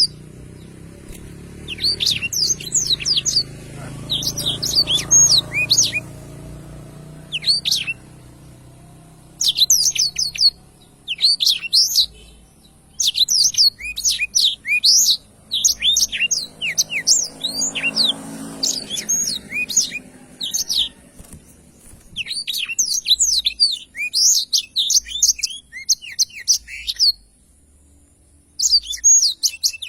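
Black-throated canary (blackthroat) singing its long rolling song: phrases of rapid, high twittering notes, one to three seconds each, with short pauses between them and a longer pause near the end.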